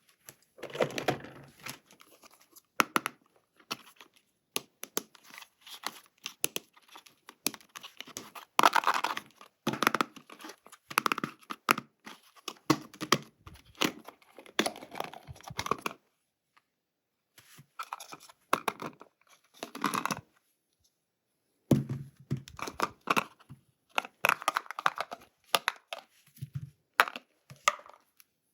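Toy packaging being torn open and handled by hand: cardboard and plastic ripping and crinkling in irregular bursts, with a couple of brief pauses.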